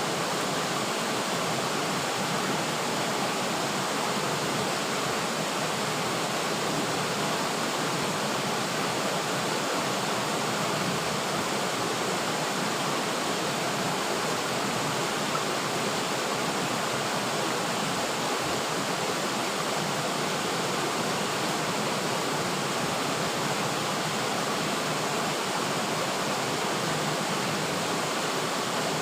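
River water flowing and rushing over rocks: a steady, even hiss without breaks.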